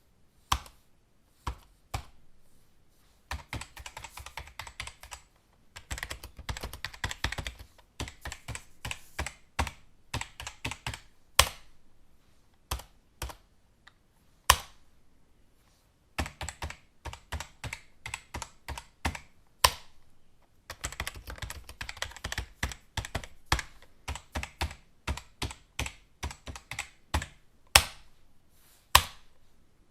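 Typing on a computer keyboard: runs of rapid keystrokes broken by short pauses, with occasional single louder key strikes.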